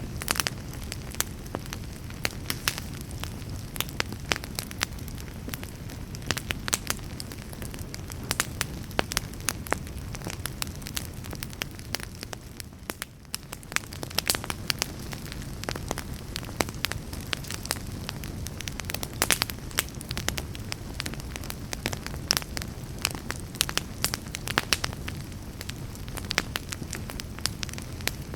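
Wood fire burning in a fireplace: irregular sharp crackles and pops from the logs over a steady low rumble of flames, with a brief lull about halfway through.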